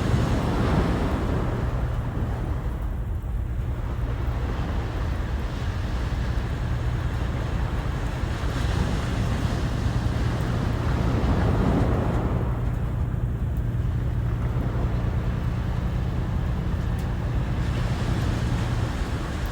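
Sea waves breaking on the shore: a swell of surf noise near the start and another about halfway through, under a steady low rumble of wind on the microphone.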